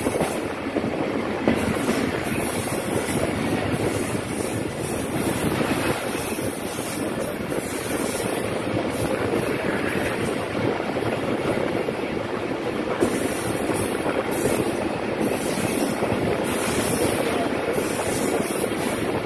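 Steady running noise of a Pakistan Railways Tezgam Express passenger coach in motion, heard from its open doorway: the wheels rumbling along the rails.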